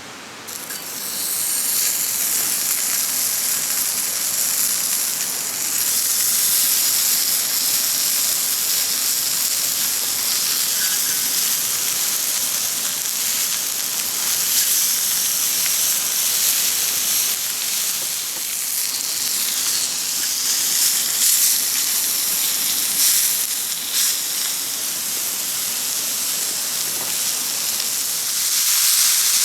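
Meat sizzling over a wood fire, a loud steady hiss that starts about a second in.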